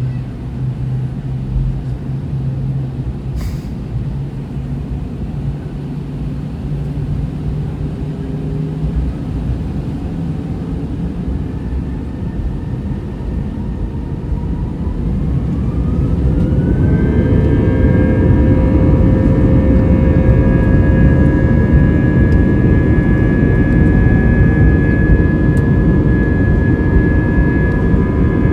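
Airbus A320 jet engines heard from inside the cabin: a low rumble and hum, then about halfway through the engines spool up with a rising whine that settles into a loud, steady roar of takeoff thrust.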